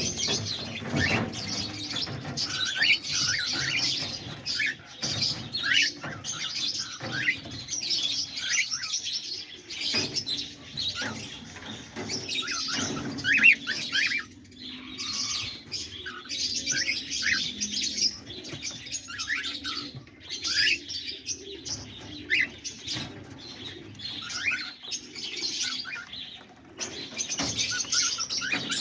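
A flock of cockatiels chirping and calling over one another in short repeated chirps.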